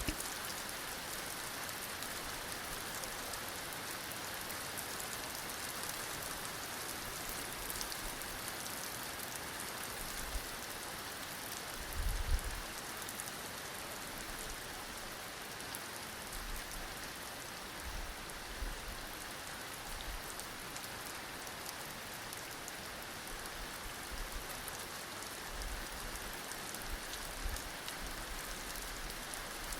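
Heavy rain falling steadily, a dense even hiss of drops on surfaces. A brief low thump about twelve seconds in, and a few shorter low bumps later on.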